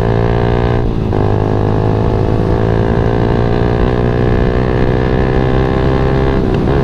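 Yamaha MX King 150's single-cylinder four-stroke engine running under way, its note easing slowly lower, with two brief dips about a second in and near the end.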